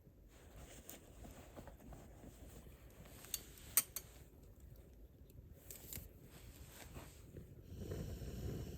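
Wood campfire burning with a low rush and scattered sharp crackles and pops, the loudest a little under four seconds in. Near the end it swells into a louder low rushing sound.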